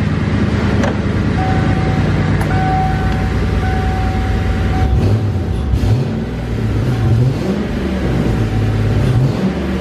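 Ford Mustang engine running loudly through a makeshift exhaust with the catalytic converters cut out. It holds steady at first, then its pitch rises and falls over the second half as it is revved.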